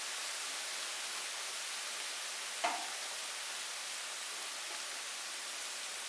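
Steady rain falling, an even hiss, with one short sharp tap of a drop hitting something about two and a half seconds in.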